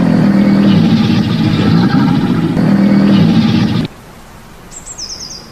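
Crocodile growling: a loud, low, rumbling growl lasting nearly four seconds that cuts off abruptly, followed near the end by a few faint, high, short chirps.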